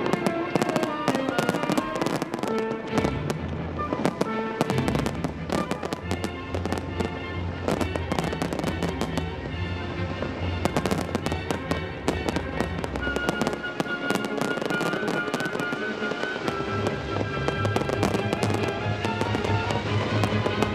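Fireworks display: aerial shells bursting and crackling in quick, overlapping succession, with music playing underneath.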